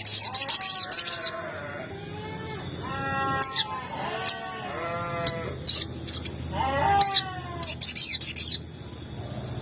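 Sogon birds calling: clusters of quick, high, sharp chirps, mixed with several lower, drawn-out calls that last about half a second each.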